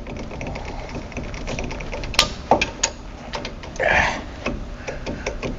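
Metal hand tools working on a seized wheel hub's bolts: a run of quick small clicks, like a ratchet, with metal clinks and a few sharp knocks.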